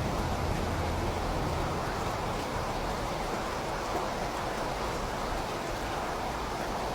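Steady rain falling, an even hiss, with the tail of a thunder rumble dying away in the first second.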